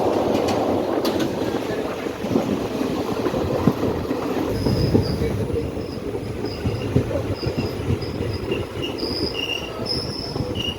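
Passenger train running on the rails, a steady rumble. From about halfway, short high-pitched wheel squeals come again and again.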